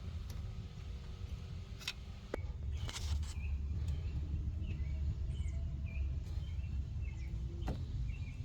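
Hand tools clicking and knocking against engine parts during a teardown: a few sharp clicks about two and three seconds in and again near the end, over a steady low rumble of background noise.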